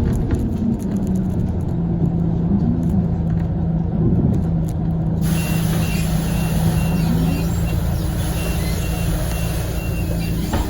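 Scania CL94UB city bus heard on board, its drivetrain running with a steady low hum. About halfway through a hiss rises suddenly, and a high beep starts repeating on and off.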